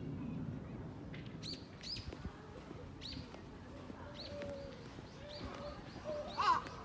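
Birds chirping: short, high, arched notes repeated about once a second, with a louder run of lower calls near the end.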